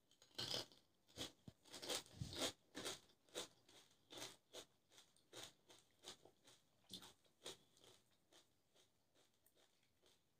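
Crisp golgappa (pani puri) shell crunched in the mouth: a quick run of loud crunches in the first few seconds, then steady rhythmic chewing that fades away toward the end.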